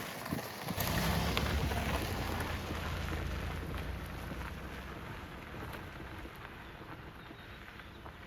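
Rain falling, with a deep roll of thunder that starts about a second in and slowly fades away.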